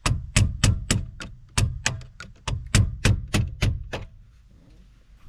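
A 4-pound hammer striking a chisel set against the head of a shear-off security bolt, driving it counterclockwise to unscrew it: a steady run of about fourteen sharp metal strikes, about three a second, which stop about four seconds in.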